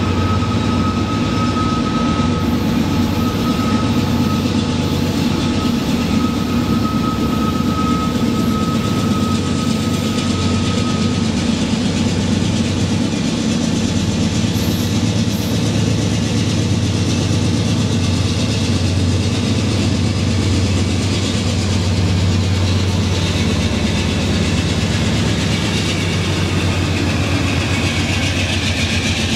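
Freight train rolling past, a steady noise of wheels on rail over a low hum, with a thin steady whine through the first ten seconds or so.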